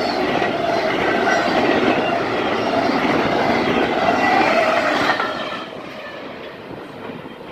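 Norfolk Southern intermodal freight cars passing fast: a steady rumble and clatter of wheels on rail with faint high squeals through it. About five and a half seconds in, the last car passes and the sound drops away to a fading rumble as the train recedes.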